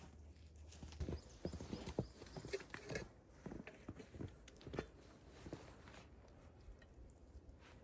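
A quick, irregular run of short knocks and clicks, a few a second, loudest in the first couple of seconds and thinning out after about six seconds.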